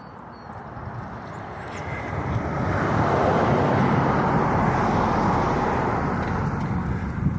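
A passing vehicle: its noise swells about two seconds in, is loudest for a couple of seconds, then slowly fades, over a steady low rumble.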